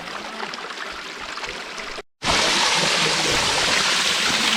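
Forest stream running over rocks, at a moderate level at first. After a brief break about two seconds in, a much louder steady rush of water takes over.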